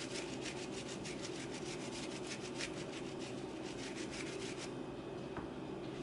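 A kitchen brush being stroked quickly back and forth, spreading maple syrup over food: a rapid run of scratchy brushing strokes, several a second, that stops about three-quarters of the way through.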